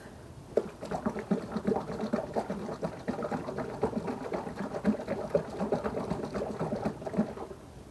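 Tin of wood-protector paint being shaken hard by hand: rapid rhythmic sloshing of the paint inside the metal can, several strokes a second. It starts about half a second in and stops just after seven seconds.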